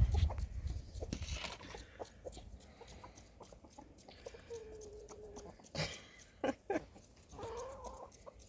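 Backyard hens clucking, with a drawn-out call about halfway through and another wavering call near the end. A few sharp taps come between the two calls.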